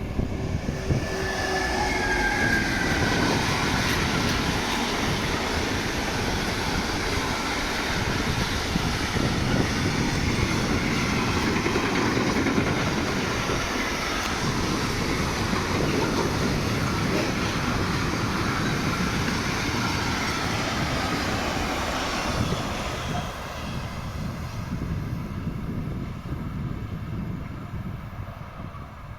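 Train passing on the track, a loud steady rumble and rattle of wheels on rails for about twenty seconds, with a faint whine that falls in pitch in the first few seconds. The noise fades away near the end.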